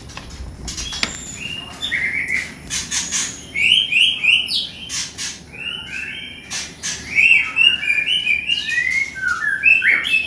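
White-rumped shamas (murai batu) chirping in quick runs of short repeated notes, with a few sharp knocks and clicks mixed in.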